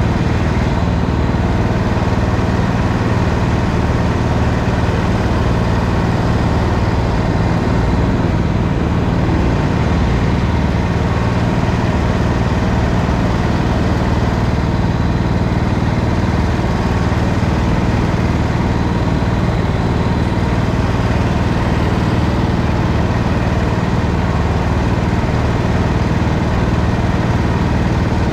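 Racing go-kart engine running loudly and steadily at speed, with no let-up.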